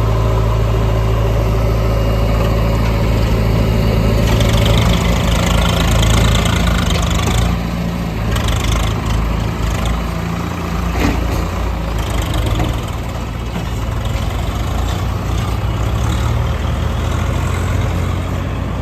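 Heavy diesel engine of the machinery loading mud, running steadily, its note shifting about four seconds in and again near eight seconds, with a single sharp knock about halfway through.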